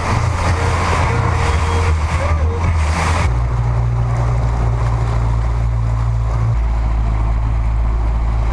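Small boat under way: a low engine rumble with a rushing hiss of wind and water. About three seconds in the hiss drops away abruptly, leaving a steady low rumble.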